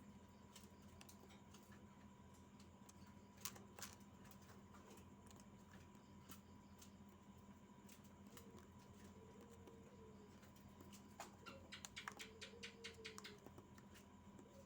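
Near silence: a steady faint electrical hum, two soft clicks about three and a half seconds in, and a quick run of faint clicks near the end.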